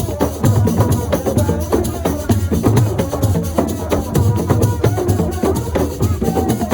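Assiko music: fast, dense hand-drum and shaker percussion playing a steady, driving rhythm, with a pitched voice or melody line over it.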